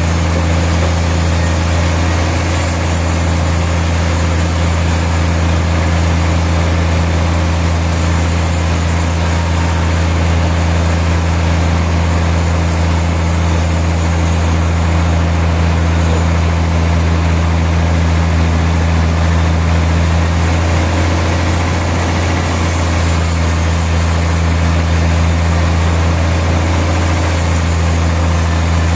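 Sawmill machinery and its engine running steadily: a constant low hum with a noisy hiss above it, unchanging throughout.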